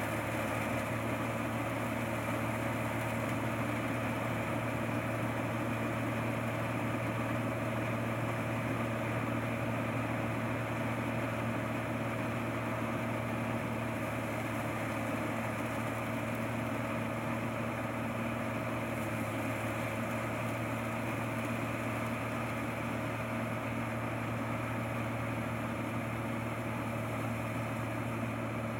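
Rice combine harvester's engine running steadily at a constant speed, an even hum with no change in pitch.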